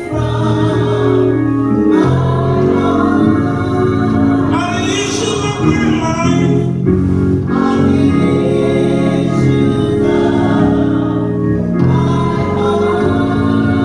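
Gospel music: a church choir singing over organ accompaniment, with held chords that change every second or two.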